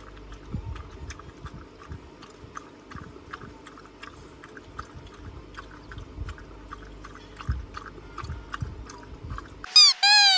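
Steady crunchy chewing, short crisp crunches about two to three a second with soft low thumps, cut off near the end by two loud high squeaky calls.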